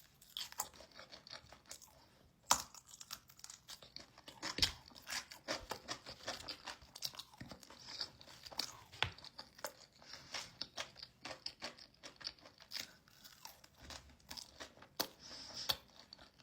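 A person chewing and crunching food close to the microphone: irregular, crisp clicks and smacks of eating with no steady rhythm.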